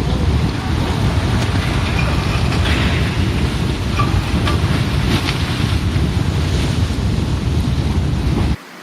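Mudslide rushing down a mountainside: a loud, continuous low rumble with wind buffeting the microphone. It cuts off abruptly near the end.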